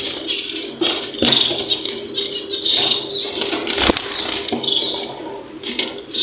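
Small cage birds chirping busily, with scattered clicks and a sharper knock about four seconds in as cages and feeders are handled, over a steady hum.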